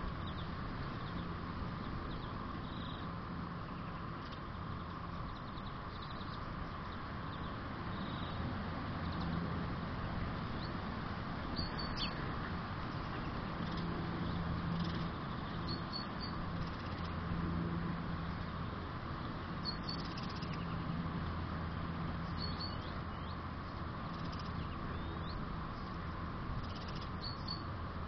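Small garden birds giving short high chirps every few seconds over a steady background hiss and low rumble.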